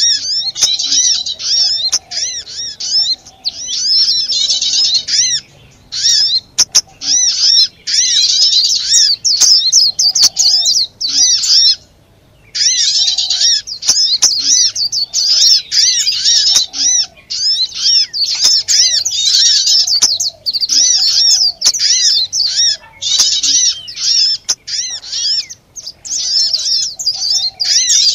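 Bird-lure (pikat) recording of many small birds chattering noisily: rapid, high, overlapping chirps in dense bursts with brief breaks, one a little longer near the middle.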